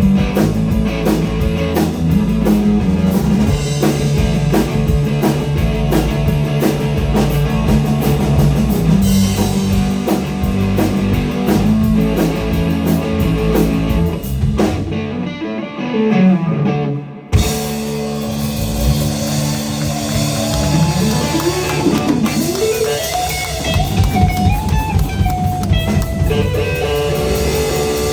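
Live blues-rock band playing an instrumental passage: electric guitar over drum kit and bass. About halfway through the drums and cymbals drop away while a note slides down in pitch; a sharp hit brings the band back in, followed by notes that bend up and down.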